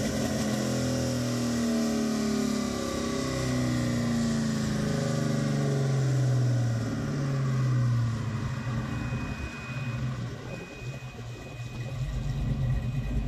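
5.3-litre Gen IV LS V8 in a 1981 Chevrolet Malibu running on a chassis dyno, its revs falling in several stretches over the first eight seconds. The engine then runs quieter, with a thin, steady high whine over it.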